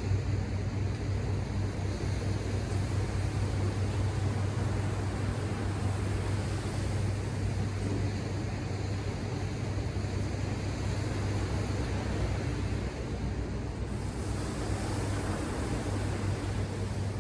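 Ocean surf washing steadily, over a constant low rumble; the hiss of the surf brightens about fourteen seconds in.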